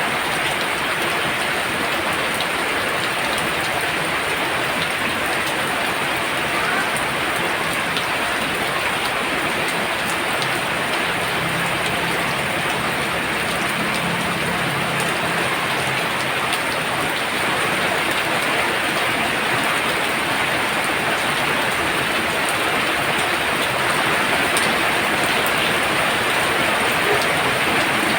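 Heavy rain falling steadily, a dense hiss of drops pouring down. A faint low hum comes and goes about halfway through.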